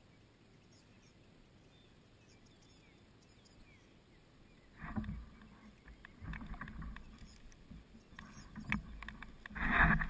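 Kayak movement sounds: a quiet stretch with a few faint high chirps, then from about five seconds in irregular knocks, bumps and sloshing as the angler shifts and handles gear in the kayak, the loudest burst near the end.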